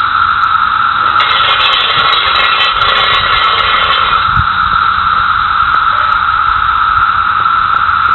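Loud chorus of cicadas, a steady high drone holding one pitch, with a harsher hissing layer added from about one to four seconds in.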